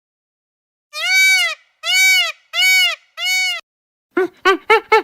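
Animal calls: four loud calls, each rising and falling in pitch, starting about a second in. From about four seconds they give way to a fast run of short calls, about four a second.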